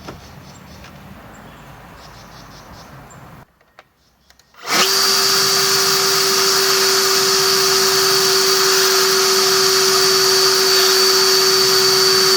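Battery-powered EGO brushless leaf blower switching on about a third of the way in, quickly spinning up and then running steadily at full speed: a loud rush of air with a steady whine over it. Before that there is only a faint steady background noise and a brief near-silent gap.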